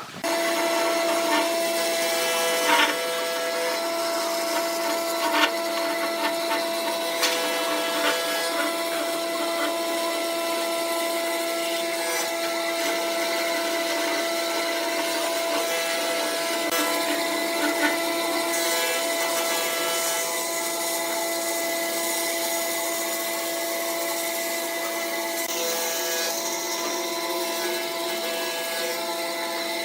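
Wood lathe running with a steady motor whine while a turning tool scrapes and cuts the spinning wood, with a few sharp knocks in the first half.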